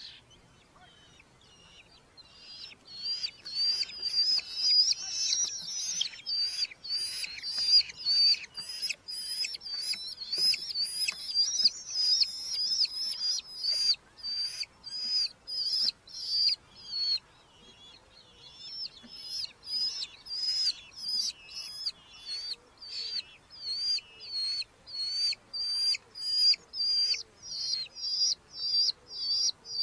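Red-footed falcons giving a long run of high, shrill calls, about two a second, starting a couple of seconds in.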